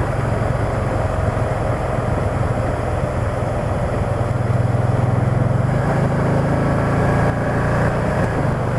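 Can-Am Spyder three-wheeled motorcycle running at road speed, a steady engine hum under heavy wind and road noise; the engine note strengthens and climbs slightly about six seconds in.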